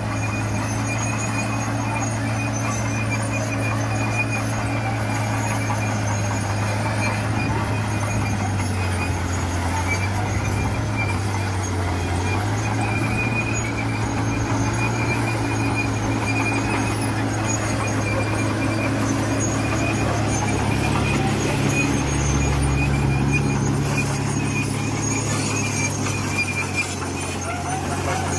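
Diesel engine of heavy earthmoving equipment running continuously, its pitch shifting a little now and then, with a thin, steady high squeal over it.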